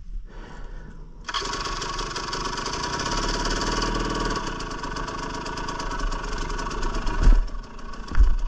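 Dirt bike engine starting about a second in and running with rapid, even firing for several seconds, dropping away near the end, followed by a couple of low thumps.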